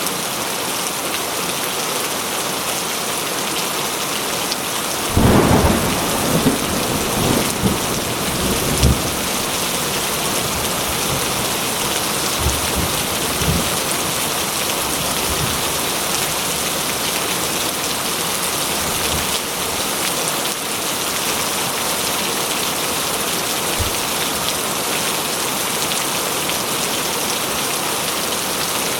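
Steady heavy rain falling, with a clap of thunder about five seconds in that rumbles on in rolls for several seconds before fading back under the rain.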